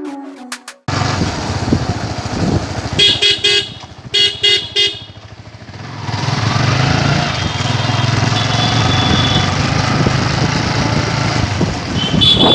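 Road traffic: a vehicle horn toots in a quick series of short beeps a few seconds in, then steady engine and road noise builds, with another horn toot near the end.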